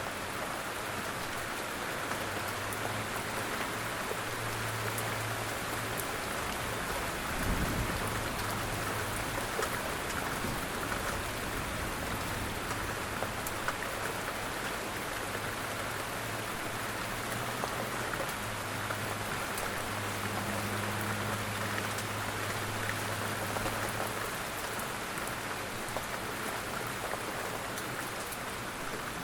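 Steady rain falling, an even hiss with scattered drop ticks. A faint low hum comes and goes underneath, and a single dull low thump sounds about seven and a half seconds in.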